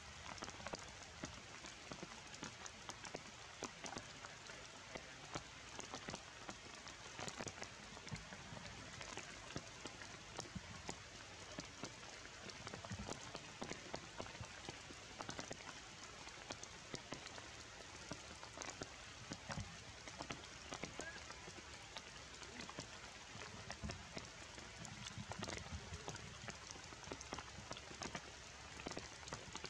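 Steady rain falling on leaves, with many separate drops striking.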